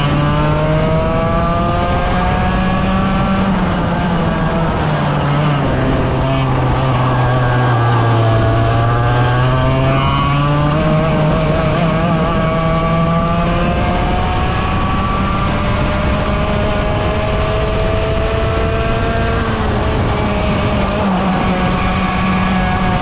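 100cc two-stroke racing kart engine running hard, its pitch climbing and falling as the kart speeds up and slows through the corners. About eight seconds in the pitch sinks to its lowest, then climbs again as the kart accelerates.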